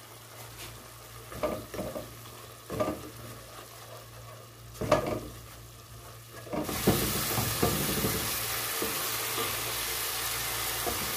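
A plastic spatula stirring and scraping a thick tomato-and-spice masala in a nonstick pan, with a few separate scrapes. About two-thirds of the way through, a steady sizzle of the masala frying in oil sets in and holds.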